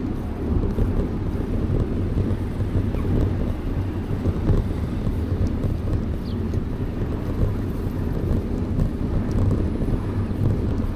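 Wind buffeting the microphone of a camera on a moving bicycle: a steady low rumble, with a few faint ticks and a brief high chirp about six seconds in.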